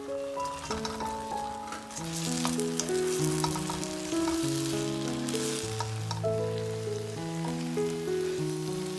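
Food sizzling as it fries in a hot pan, the sizzle loudest in the middle with a few small clicks, over light background music playing a melody of held notes.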